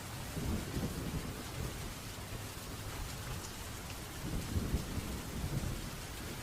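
Steady rain hissing, with low thunder rumbling twice: once starting about half a second in and again around four seconds in.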